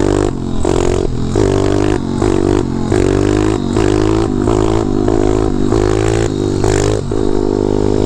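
A 190cc pit bike's single-cylinder engine revving in short pulls of the throttle, its pitch climbing and dropping off again about a dozen times, then holding steady near the end.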